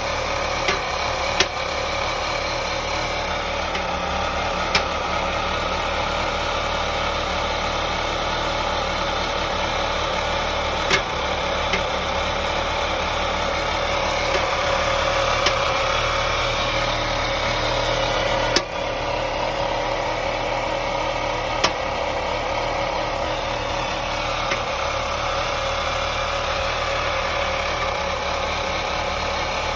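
BMW E39 525i's M54 2.5-litre straight-six idling steadily, with a sharp knock breaking in at irregular intervals every few seconds. The owner takes the knock for a misfire from loose spark plugs.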